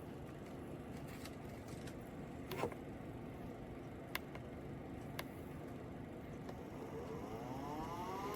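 A few separate clicks, then, about seven seconds in, the 90 mm fan unit of a battery-powered fan for fan-cooled work clothing starts spinning up with a rising whine.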